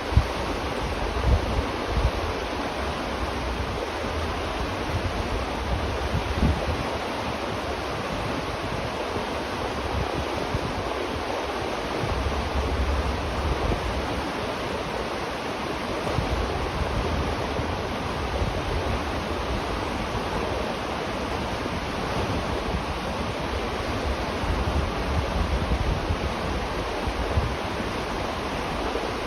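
River water rushing steadily beneath a bridge, an even wash of sound. Low wind rumble on the microphone comes and goes, strongest in the second half.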